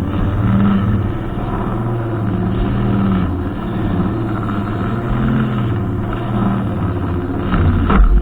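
Brushcutter engine running steadily, its pitch wavering a little as it works. Near the end a louder low rumble comes in.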